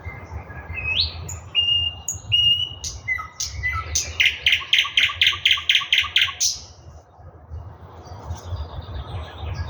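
Eastern nightingale singing: a few clear whistled notes and quick upward glides, then a loud run of about ten rapidly repeated notes, about four a second, followed by softer phrases near the end.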